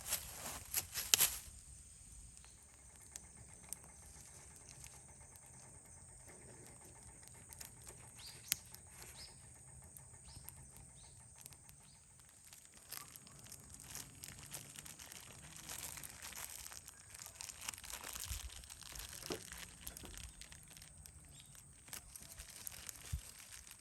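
Wood fire in a fire pit crackling, with scattered small pops and rustles. A few loud rasping strokes stop about a second in.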